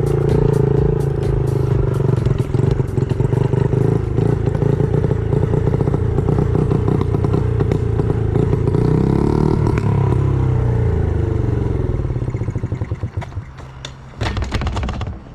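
Honda CRF50 pit bike's small single-cylinder four-stroke engine running, its pitch swinging up and down partway through. About twelve seconds in it stutters and dies, an unexplained stall. A short noisy rush follows near the end.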